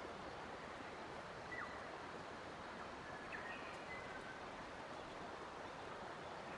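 Forest nature ambience: a steady, even rushing noise like flowing water, with a few faint, brief bird chirps about a second and a half in and again around three to four seconds.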